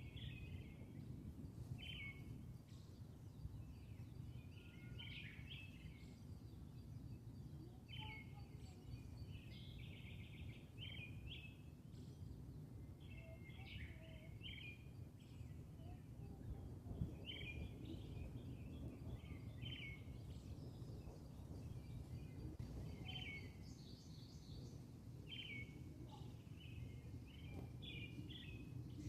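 Small birds chirping in short bursts every second or two, over a steady low outdoor background rumble.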